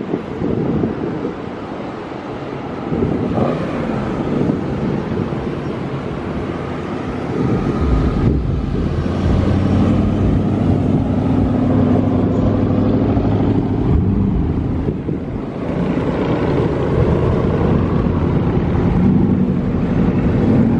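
Car engines running as a group of Mopar cars comes through, getting louder about eight seconds in, with a short lull near the end.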